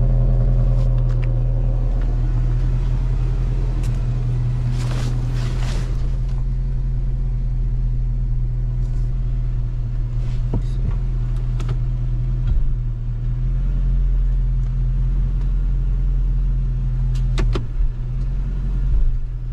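2006 Dodge Charger R/T's 5.7-litre Hemi V8 running steadily at idle with a new crankshaft sensor fitted, still misfiring but, to the owner's ear, backfiring less. A short hiss comes about five seconds in, and a few clicks near the end.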